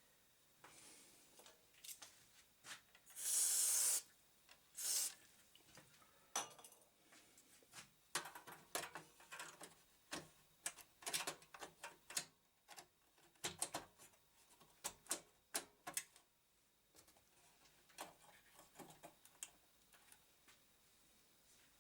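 Computer parts being handled and reseated: scattered sharp clicks and clatter of hard plastic and metal, with a short hissing burst about three seconds in and another just after.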